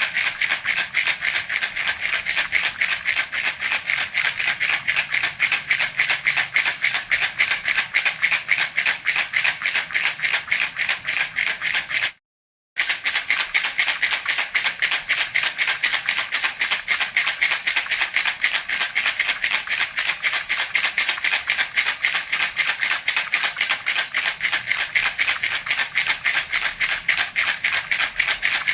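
A baby's rattle (jhunjhuna) shaken continuously in a fast, even rhythm, a bright, crisp rattling of beads. It breaks off for about half a second roughly twelve seconds in, then carries on the same way.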